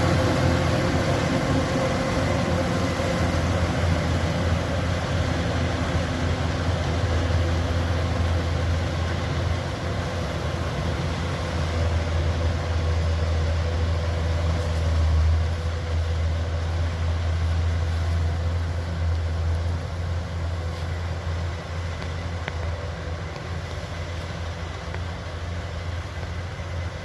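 Kubota DC-105X combine harvester's diesel engine running steadily with a deep hum, easing slightly quieter over the last several seconds.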